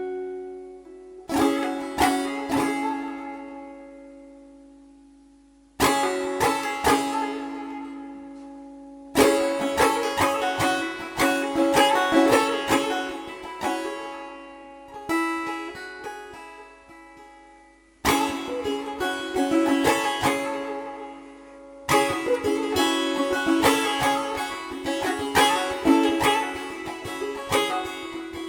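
Three-string kopuz played solo with a plectrum: strummed chords left to ring and die away, alternating with runs of quick plucked notes over ringing open strings.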